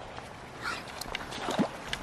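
Water splashing and sloshing at close range, with scattered sharp clicks and a louder splash about halfway through.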